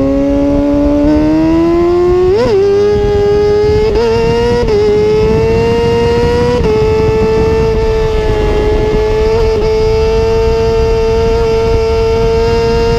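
Kawasaki ZX-6R inline-four sport-bike engine through a Two Brothers aftermarket exhaust, its revs climbing with a quick blip about two and a half seconds in, then held steady at high revs from about halfway.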